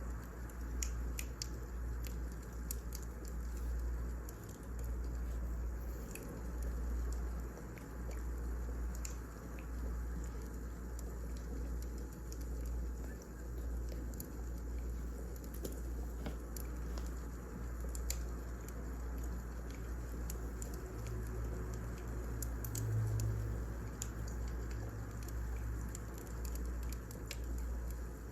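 Wood fire crackling: scattered irregular pops and snaps over a steady low rumble.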